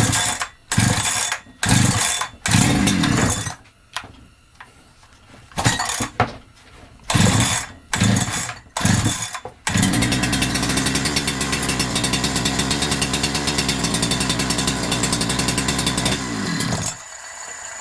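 Holzfforma G372XP two-stroke chainsaw being pull-started on choke with the decompression valve in: four quick pulls of the starter rope, a pause, four more, then the engine catches about ten seconds in. It runs steadily for about six seconds, then slows and stops. With a new carburettor and a full tank covering its too-short fuel pickup tube, this start is an improvement.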